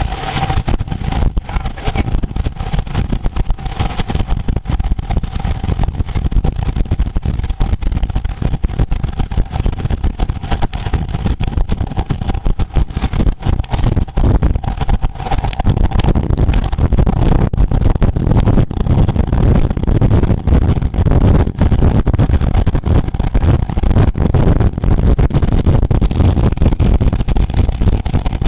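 Wind buffeting the microphone, with road noise, while riding at race speed. A faint steady hum runs through the first half and fades away.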